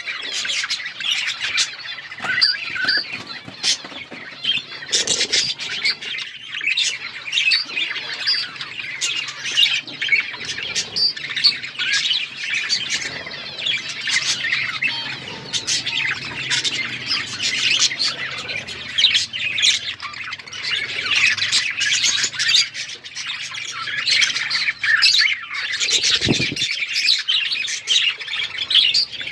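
A group of budgerigars chattering with a steady stream of overlapping chirps and squawks.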